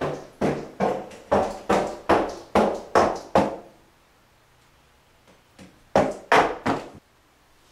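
A rapid, even run of hard knocks, about two and a half a second for roughly three and a half seconds, each with a short ringing tail. After a pause, three more quick knocks come near the end.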